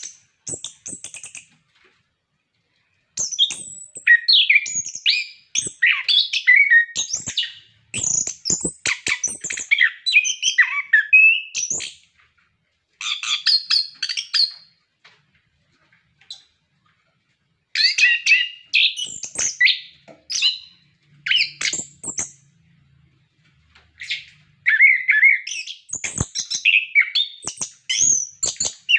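Orange-headed thrush in full song: quick, varied runs of chirps and whistles, broken by pauses of a second or more between bursts. A few sharp clicks fall among the phrases.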